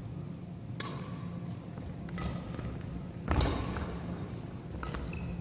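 Badminton rally: four sharp racket-on-shuttlecock strikes, about one to one and a half seconds apart, with short squeaks in between. The loudest strike, a little past the middle, comes with a heavy thud.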